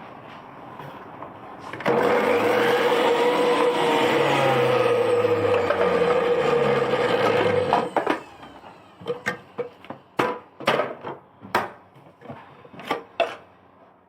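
The motor of a 400 W centrifugal juicer runs for about six seconds with a steady whine, then cuts off abruptly. It is followed by a string of irregular sharp clicks and knocks.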